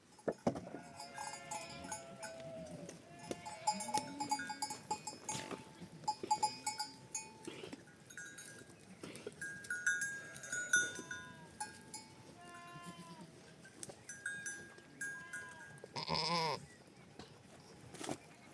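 A herd of sheep and goats bleating, many calls overlapping, with the clinking of livestock bells; one louder bleat near the end.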